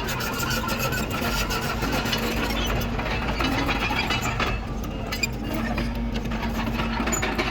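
Komatsu D31PX crawler dozer's diesel engine running steadily under work, with a dense rattling clatter of its steel tracks and undercarriage.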